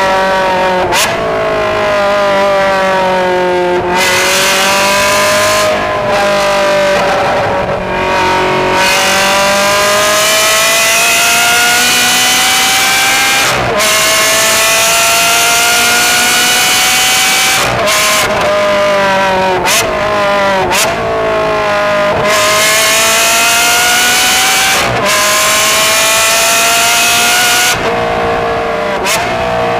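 Ferrari 360 Modena's V8 heard through an aftermarket exhaust from a microphone outside at the rear of the car. The engine pitch climbs over long pulls and falls away several times, with brief sharp breaks, as at gear changes and when lifting off the throttle.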